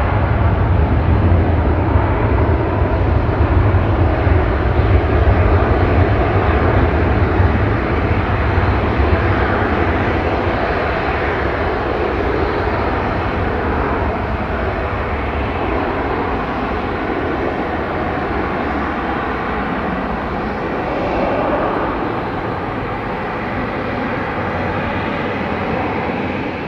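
Jet engine noise of a Dassault Falcon 7X business jet: a steady rushing roar with a deep rumble underneath, a little louder over the first several seconds and then easing slightly.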